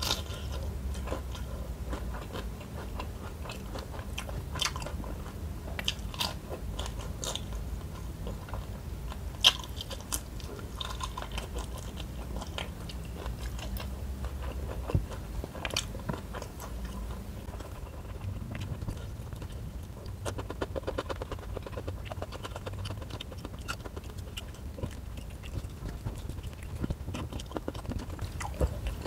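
Close-miked chewing of rice with shrimp and petai (stink beans) in sambal, eaten by hand: steady wet mouth sounds with many short clicks and a couple of sharper crunches.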